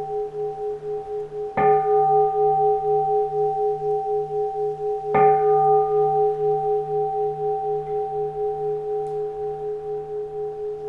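A keisu, a Japanese Zen temple bowl bell, struck twice, about a second and a half in and again about five seconds in. Each strike rings on long with a slowly pulsing, wavering hum, overlapping the ring of the one before.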